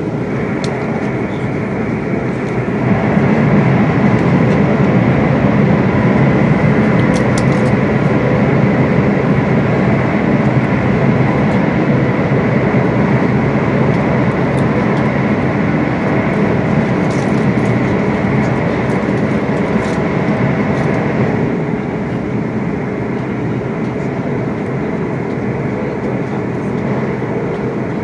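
Inside a Class 350 electric multiple unit running at speed: steady rumbling running noise from the train, getting louder about three seconds in and easing off again about twenty-one seconds in.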